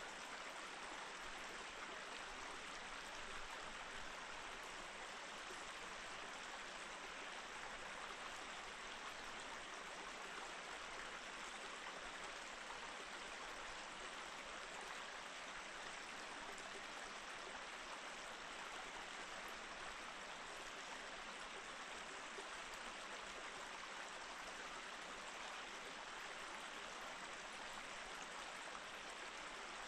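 Mountain stream flowing over rocks, a steady, even rush of running water.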